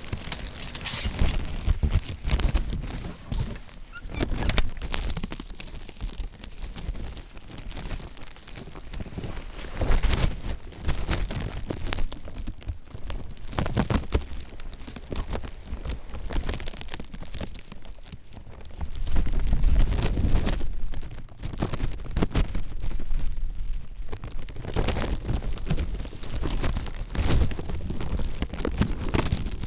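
Snowstorm wind gusting and buffeting the microphone, a rumbling, uneven rush that swells and drops, strongest about two-thirds of the way through, with a rain-like hiss of storm noise over it.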